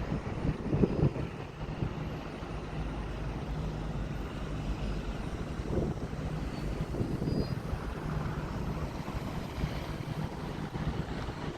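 Wind buffeting the microphone over a steady low mechanical drone, with a few stronger gusts.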